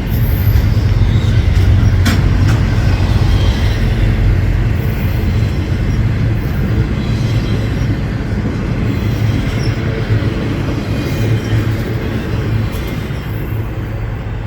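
Freight train rolling past: a steady, loud rumble of rail cars on the track, with a few sharp clicks from the wheels, slowly fading near the end.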